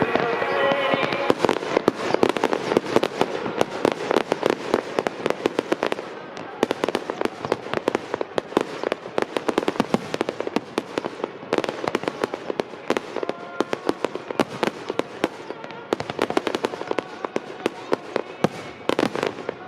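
Aerial fireworks bursting in a rapid barrage, many sharp bangs and crackles a second without a break, densest in the first few seconds.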